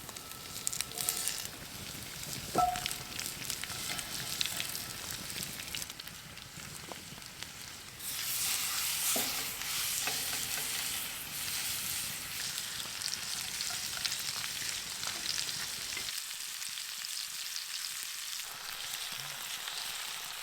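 Food sizzling and frying in a very hot cast iron skillet over a campfire, a steady hiss with scattered small pops that grows louder about eight seconds in. The pan is running too hot.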